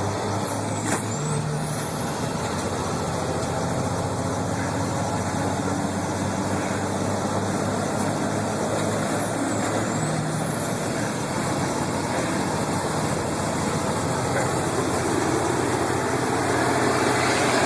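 Racing trucks' engines running steadily, a dense rumble with a very high whine that dips sharply and climbs back twice.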